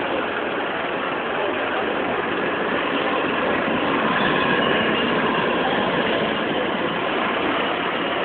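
Concrete mixer truck's diesel engine running steadily as the truck reverses, a continuous mechanical noise.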